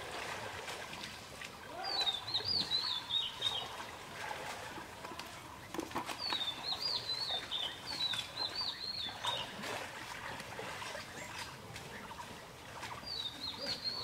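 A small bird singing, four short bursts of quick high notes that slur downward, a few seconds apart. Under it, soft splashing and sloshing of water as a fishing net is hauled through the shallows.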